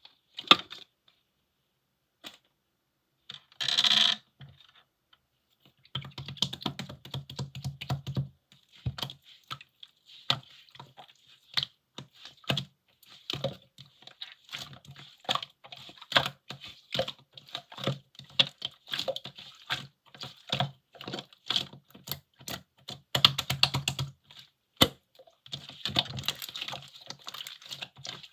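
Purple clay slime being squeezed and poked by hand, giving rapid irregular sticky clicks and pops, several a second, with a brief squelch about four seconds in.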